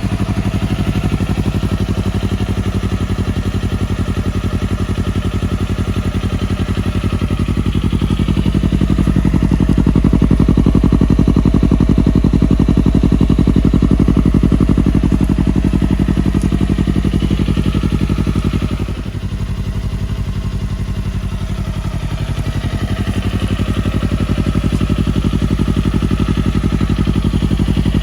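A 250 cc sport motorcycle with a custom aftermarket muffler idling steadily just after starting. The note dips briefly about two-thirds of the way through, then settles back to a steady idle.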